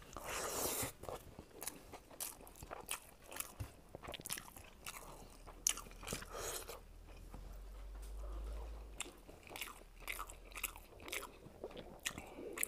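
A person chewing a mouthful of rice and fish eaten by hand, close to a clip-on microphone, with many short clicks of the mouth and lips. A faint low hum runs for a few seconds in the middle.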